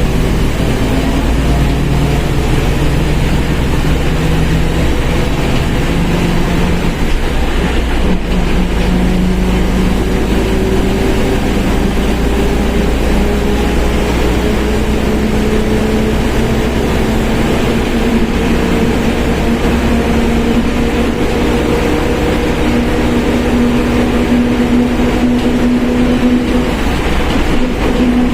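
Mercedes-Benz OF1721 BlueTec 5 bus driving, its engine and drivetrain running with a steady rumble and a whine from the differential. The whine climbs slowly in pitch as the bus gathers speed, dropping back and climbing again about eight seconds in.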